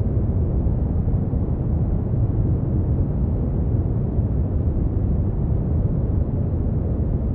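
Synthetic brown noise: a steady, deep rumbling hiss, strongest in the low end and fading out toward the highs, unchanging throughout.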